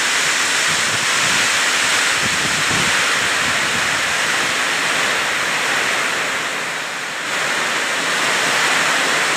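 Heavy rain pouring down in strong wind, a loud, steady hiss that dips briefly about seven seconds in.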